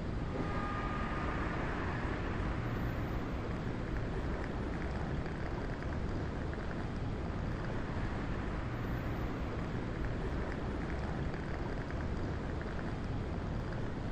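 Steady low rumble with a hiss over it, even throughout, and a few faint brief tones just after the start.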